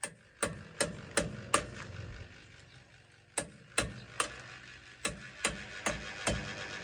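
Repeated hammer blows with a short ringing after each, in runs of three to five strikes about two and a half a second, with brief pauses between runs.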